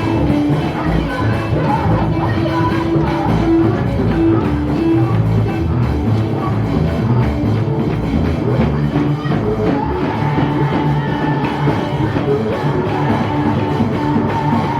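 Loud band music with a drum kit and singing, playing steadily.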